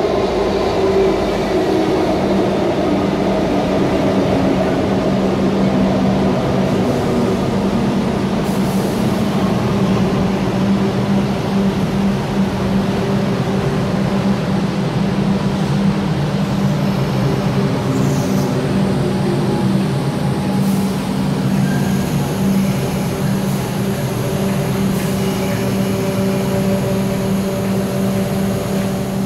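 Comeng electric suburban train arriving at a platform and slowing to a stop, its running gear whining down in pitch over the first few seconds. A steady low hum from the train follows.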